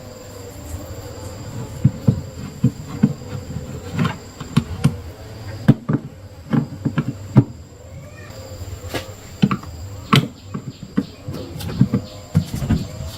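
Irregular knocks and clicks, sometimes several in quick succession, over a faint steady high-pitched whine.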